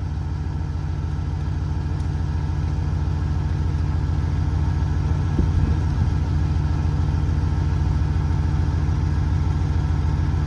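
GMC K2500 pickup's engine running steadily, a little louder about halfway through.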